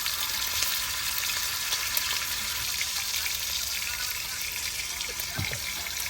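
Food sizzling in a frying pan: a steady hiss with small scattered pops.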